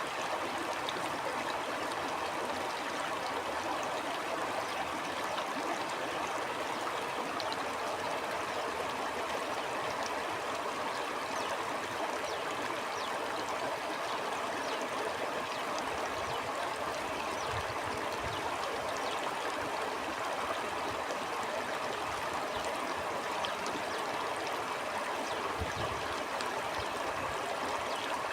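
Stream flowing steadily, an even rush of running water with fine splashing ticks. A few brief low rumbles come through about two-thirds of the way in and again near the end.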